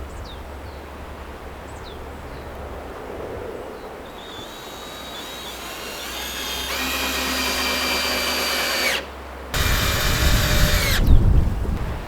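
Power drill running in two bursts: it winds up to a steady high whine for about two seconds, stops briefly, then runs again for about a second and a half. Wind buffets the microphone during the second run.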